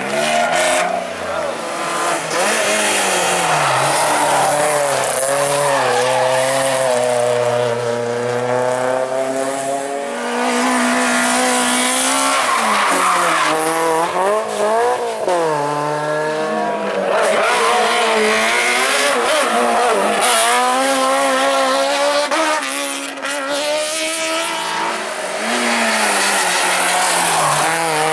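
Hill-climb race car engines driven flat out, the revs repeatedly climbing and dropping as they accelerate and shift gears, with some tyre squeal.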